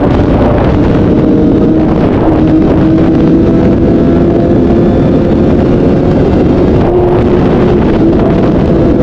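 Honda CBR 1000RR's inline four-cylinder engine running under way, its note climbing gradually over several seconds, with heavy wind buffeting on the microphone.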